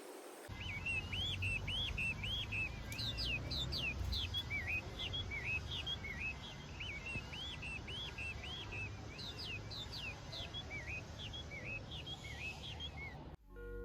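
Birds chirping in a long run of short, quick up-and-down chirps, several a second, over a low rumble.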